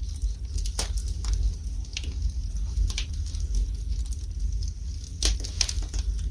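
Wood fire burning in a fireplace: irregular sharp crackles and pops over a low steady rumble, with a quick run of pops near the end.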